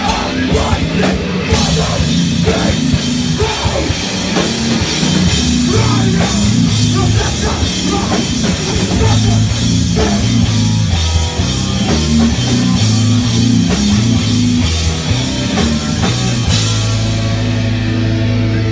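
Live heavy rock band playing loud: distorted guitars, bass and drum kit. Near the end the drums stop and a held chord rings on.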